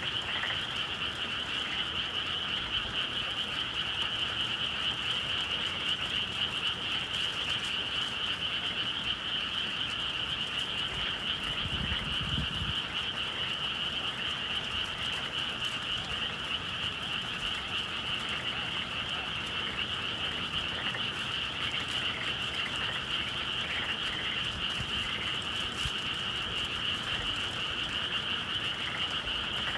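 A dense chorus of many frogs calling at once, steady and unbroken, with a brief low rumble about twelve seconds in.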